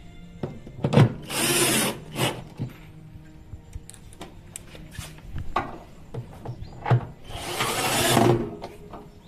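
Repair work on a washing machine: scattered knocks and clicks of tools against parts, with two short noisy bursts, one about a second and a half in and one near the end.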